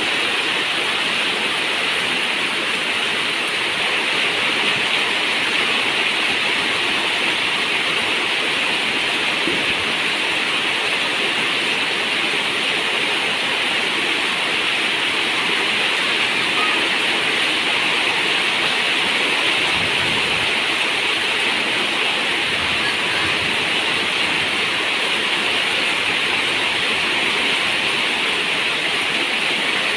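Steady heavy rain, an even continuous hiss with no breaks or single drops standing out.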